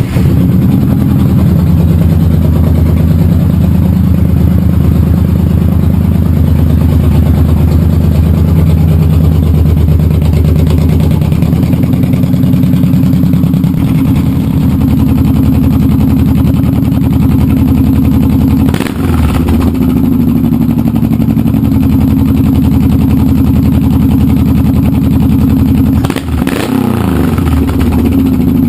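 Honda VTX1800F's V-twin running on a 3-inch Road Burner aftermarket exhaust, idling steadily just after starting, with two brief changes in engine pitch, about two-thirds of the way through and near the end.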